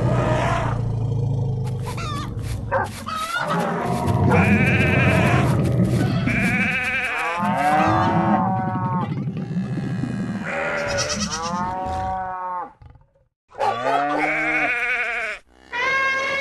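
Farm animals calling, a string of bleat-like calls one after another, each bending up and down in pitch. The sound drops out suddenly twice near the end.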